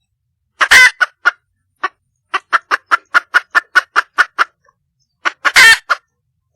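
Wild hen (female red junglefowl) calling for a mate: a loud call, a few short notes, then a fast run of about a dozen short clucks at roughly five a second, and a second loud call near the end.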